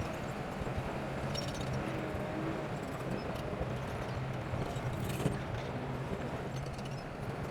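Bulldozer diesel engine running steadily with rattling, clanking tracks and one sharp knock about five seconds in.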